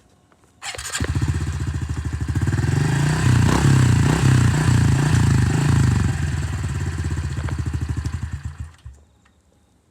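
Dirt bike engine starting with a sharp onset and running with a fast, even firing beat, revving louder in the middle, then cutting out near the end.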